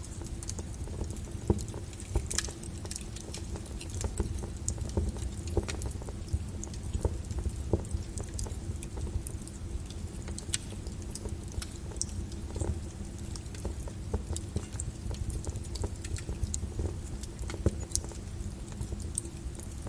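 Wood fire crackling, with irregular sharp pops over a low steady rumble, mixed with rain.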